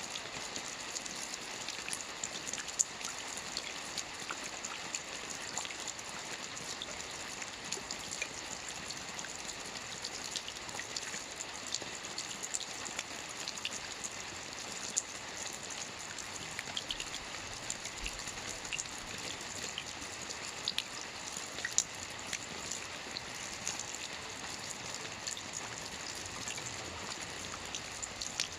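Steady light rain, a dense even hiss of falling drops with many separate drops ticking crisply on a surface.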